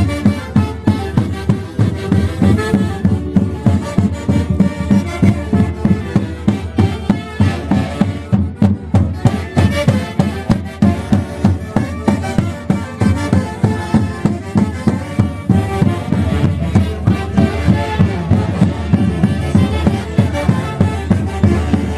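Peruvian orquesta típica playing Santiago festival music over a steady, quick drum beat.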